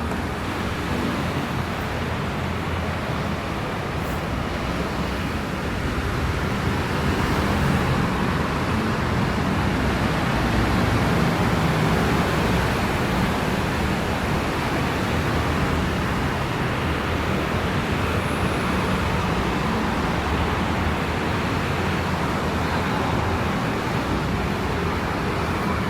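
City street traffic: passing vehicles with tyres hissing on wet road, a steady wash of noise that swells a few seconds in and then eases slightly.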